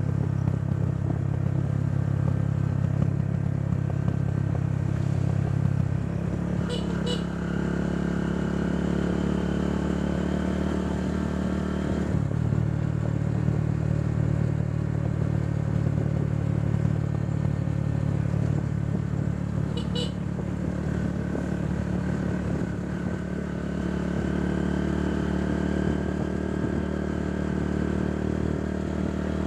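Motorcycle tricycle engine running steadily while under way, with its pitch shifting about six seconds in and again about twelve seconds in as the speed changes. Two brief high chirps come through, one about seven seconds in and another about twenty seconds in.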